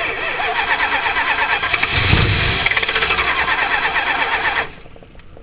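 1978 Chrysler Cordoba's V8 engine being cranked by its starter motor in quick rhythmic pulses, with a low surge about two seconds in. The starter stops after about four and a half seconds without the engine catching: a hard start.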